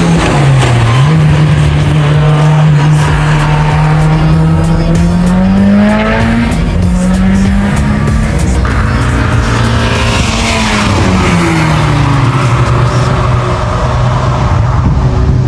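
Car engine held at high revs, rising and falling, with tyres squealing.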